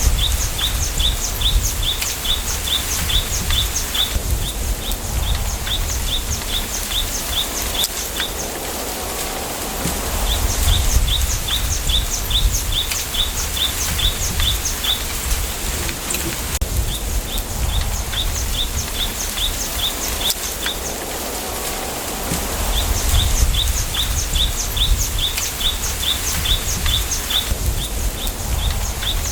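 Bamboo grove ambience: a bird repeating a rapid series of high chirps, about three a second, in three runs separated by pauses of several seconds. A steady hiss and low wind rumble run underneath.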